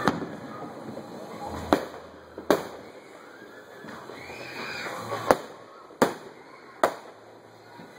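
Fireworks going off: six sharp, irregularly spaced bangs, the loudest a little past five seconds in.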